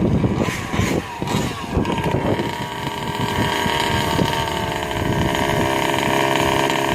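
Stock 36cc two-stroke engine of a Rovan 5T 1/5-scale RC truck, revved in uneven bursts for the first couple of seconds, then running at a steady speed.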